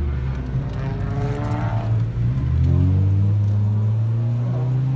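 Car engine accelerating, heard from inside the cabin: the pitch climbs, drops about two seconds in at a gear change, then climbs again.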